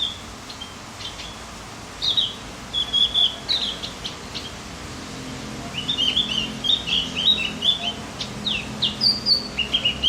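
A songbird singing quick, high chirping notes: a short phrase about two seconds in, then a longer run of rapid chirps from about six seconds on.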